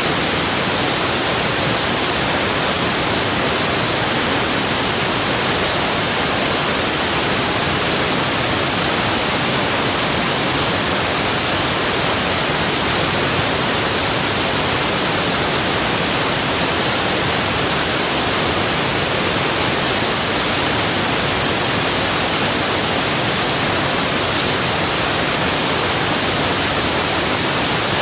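Rushing water heard as one steady, even hiss that never changes.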